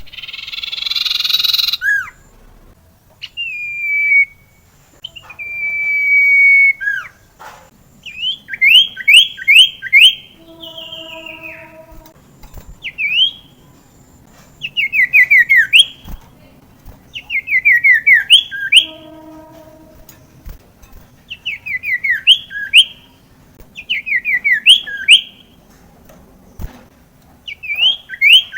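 Common iora (sirtu) singing: a harsh rasping call at the start, then two long whistled notes, followed by repeated bursts of four to six quick downward-sliding whistles every two to three seconds.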